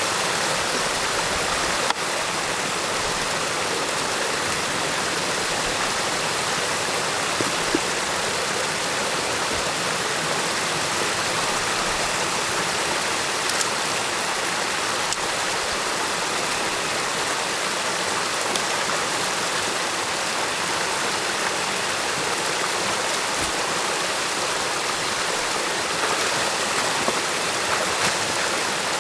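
Stream water rushing steadily at a beaver dam, with a single sharp click about two seconds in.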